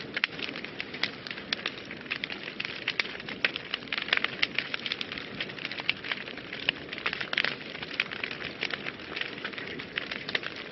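Wood fire burning in a fireplace, crackling with many irregular sharp pops and snaps over a steady hiss.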